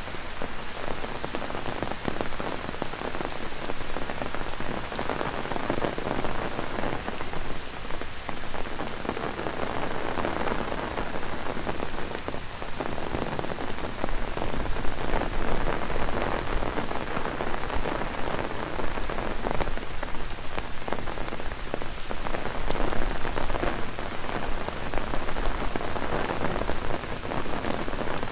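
Heavy rain pattering on an open umbrella overhead and splashing on the ground, a dense steady hiss with small swells. A steady high-pitched drone of cicadas runs under it.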